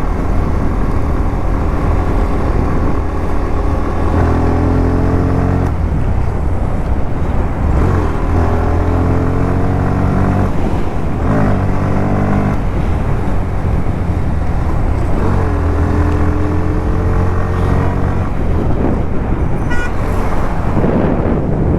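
Motorcycle engine running under way, its pitch climbing steadily and then falling away several times as it pulls and then eases off, over a steady low rumble and rushing noise.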